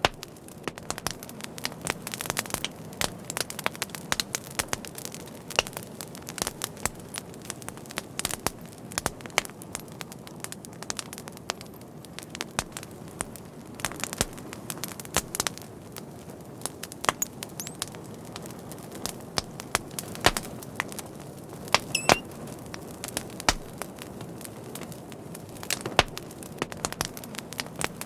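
Fire crackling: a steady low hiss and rumble of burning with frequent sharp, irregular pops and snaps, and a brief faint whistle about three quarters of the way through.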